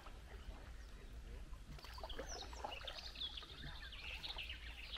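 Birds singing: a quick series of high chirps and whistles starting about two seconds in, over a steady low rumble.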